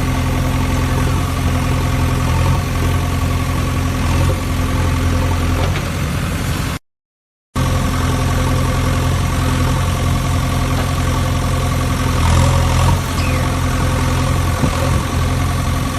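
An engine idling steadily with a low, even hum, cut off by a sudden gap of silence just under a second long about seven seconds in, then picking up again unchanged.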